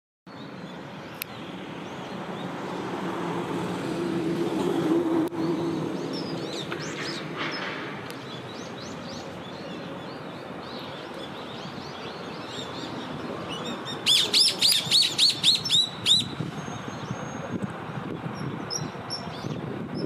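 Birds calling: scattered small chirps, then a loud, fast run of about eight high chirping notes near the end. Under them a low traffic rumble swells and fades over the first several seconds.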